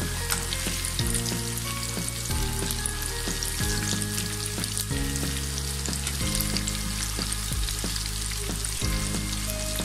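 Cabbage pakoras deep-frying in hot oil in a wok: a steady crackling sizzle. Soft background music with held notes that change about every second sits underneath.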